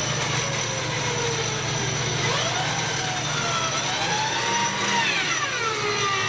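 Mechanical whine from off-road trophy vehicles over a steady noisy background, with several tones sliding slowly up and down in pitch.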